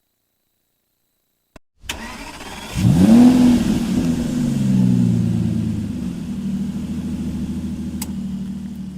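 Car engine being started: a click, about a second of starter cranking, then it catches with a quick rise in revs and settles over a few seconds into a steady idle.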